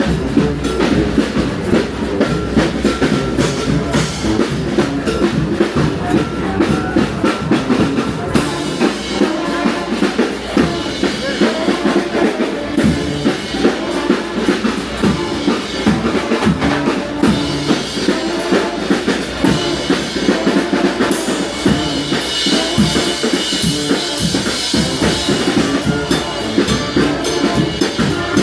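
Live brass band playing, with the drums to the fore: bass drum and snare drum keep a steady beat under the band.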